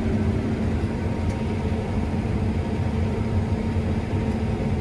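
Combine harvester running steadily, heard from inside the cab as a constant low engine and machinery drone with a faint steady whine.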